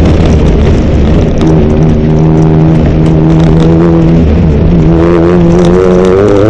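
Engine of a Mitsubishi Pajero MPR13 rally-raid car heard on board while driving a gravel track. It holds a steady pitch for a few seconds, then rises and falls with the throttle near the end. A few short knocks come over it.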